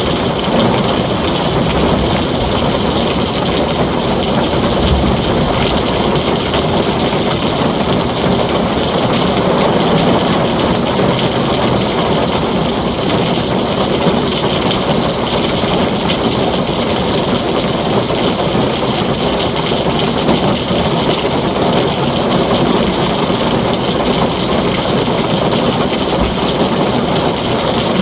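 Heavy rain drumming steadily on a tin roof, a dense, even downpour with no breaks.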